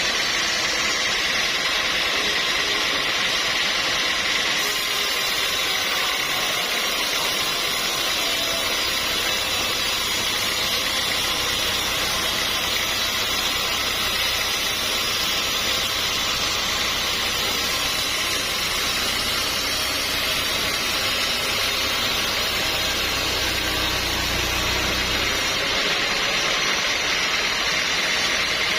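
Sawmill machinery running steadily, a loud even whir with a high whine, joined by a low hum from about eight seconds in until a few seconds before the end.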